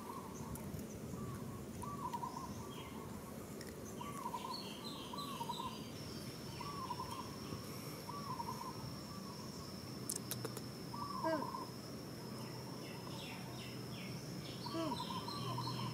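A bird repeating a short hooting call about once a second, often in quick pairs. A steady, high insect buzz joins about six seconds in.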